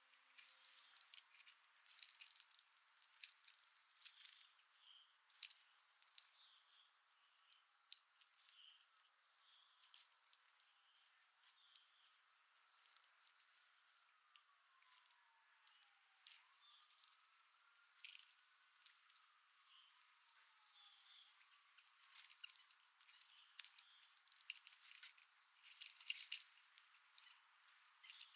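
Faint chips and short calls of small songbirds feeding at a feeder, some sweeping down in pitch, with scattered light ticks.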